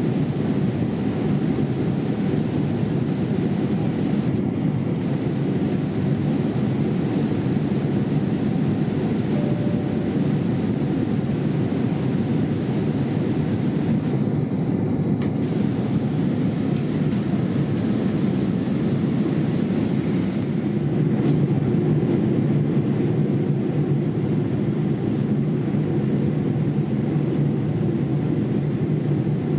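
Steady rushing cabin noise of a Boeing 787-8 airliner in flight, heard from a window seat in the rear cabin, growing slightly louder about two-thirds of the way through.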